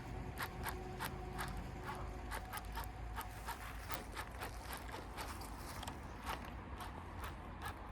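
Fishing reel being cranked to retrieve a big swimbait, a steady run of small clicks from the handle and gears at about three a second.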